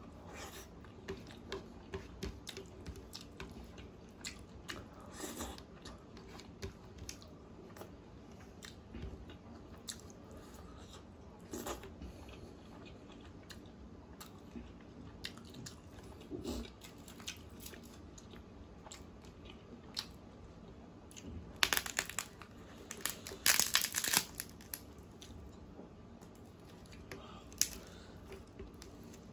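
Close-miked wet chewing and smacking of curry and rice eaten by hand, with many short mouth clicks. About three-quarters of the way through comes a louder run of crackly tearing and crinkling as butter naan is pulled apart.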